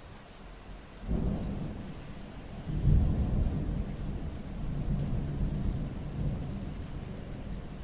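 Steady rain with a roll of thunder: a low rumble breaks in about a second in, swells to its loudest around three seconds, then rolls on and slowly fades.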